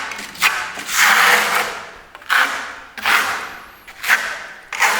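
Trowel spreading decorative concrete-effect plaster across the fireplace surface: a series of rasping scrapes, roughly one a second, each starting sharply and trailing off.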